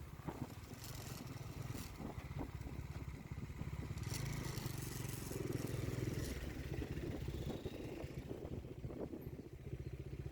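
Motorcycle engine running with a fast, low, even pulse, with a few short clicks over it.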